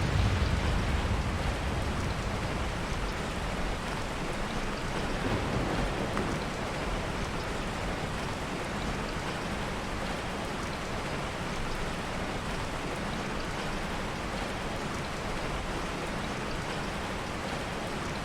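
Heavy rain falling in a steady hiss, with a low rumble of thunder dying away in the first second or two.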